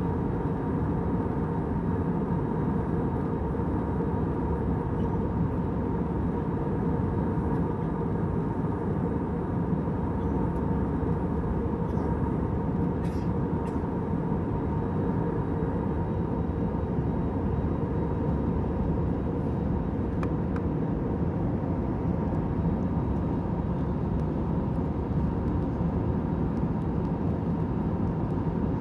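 Airliner cabin noise in cruise flight: a steady, monotonous hum and rush of engines and airflow, with faint steady tones in it.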